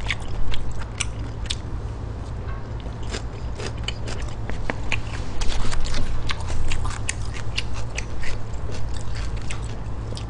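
Close-miked chewing of stir-fried pork intestines, with wet mouth clicks and smacks coming irregularly, several a second, over a steady low hum.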